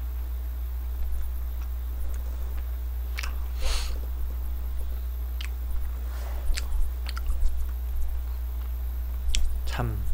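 A person biting and chewing a soft Krispy Kreme doughnut close to the microphone, with small wet mouth clicks and a breath. A steady low hum runs underneath.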